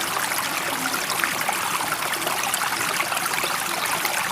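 Running water with a steady, even rush, holding its level throughout with no rise and fall of breaking waves.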